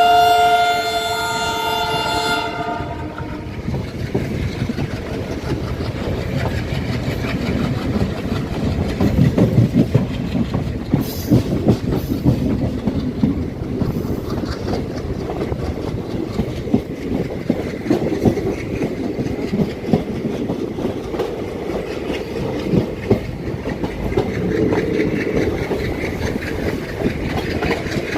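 Indian Railways express train: the horn sounds a steady chord and cuts off about two and a half seconds in. After that the train runs on with a steady rumble and the clickety-clack of wheels over the rail joints.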